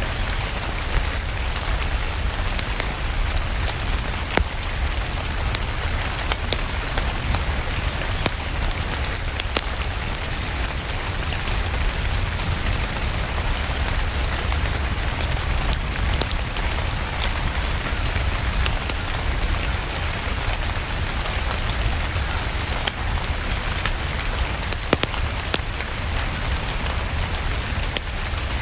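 Steady rain mixed with a wood fire crackling in a fireplace: an even hiss over a deep low rumble, with frequent sharp crackles and ticks scattered throughout.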